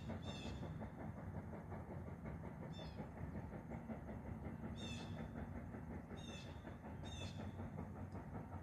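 A chickadee calling in several short runs of quick notes, over the steady low rumble of a distant steam train approaching.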